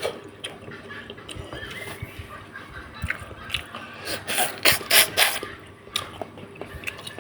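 Close-up mouth sounds of eating a soft, fatty catfish head: small wet clicks and smacks, then a run of four or five loud slurps about four to five seconds in.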